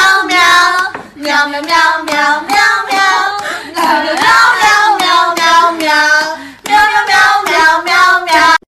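A high-pitched voice in long, wavering sung phrases with short breaks between them, cut off suddenly near the end.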